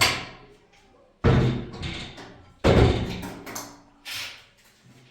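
A series of loud bangs, each fading out over about a second: three heavy ones about a second and a half apart, then a softer fourth.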